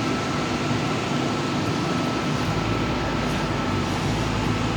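A steady mechanical hum and hiss with a faint high whine, like an air conditioner or a running vehicle. A deeper rumble joins about halfway through.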